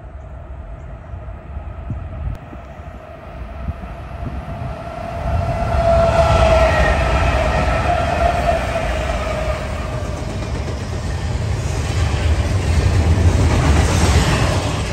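Diesel freight locomotives approaching and passing close by, their engine rumble building to its loudest about six seconds in, with a steady tone that drops slightly in pitch as they go by. Then the double-stack intermodal cars roll past, rumbling and clattering on the rails.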